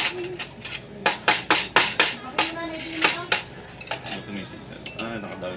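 Dishes and utensils clinking and clattering in a quick series of sharp knocks, with voices around them.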